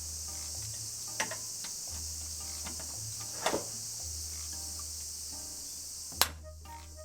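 Steady high-pitched insect chirring over soft background music with a low bass line, with three sharp clicks; the loudest click comes about six seconds in, and the chirring stops right after it.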